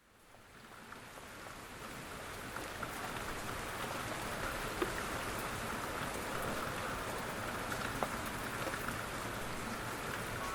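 Quiet, steady rain falling, with scattered individual drops ticking a little louder above the hiss. It fades in over the first two to three seconds.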